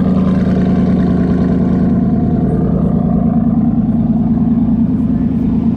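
Pickup truck engine running at a steady speed.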